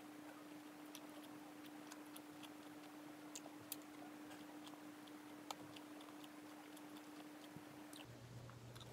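Faint chewing of a mouthful of chicken sandwich with the mouth closed: scattered soft mouth clicks, two slightly louder ones a few seconds in, over a low steady hum that stops near the end.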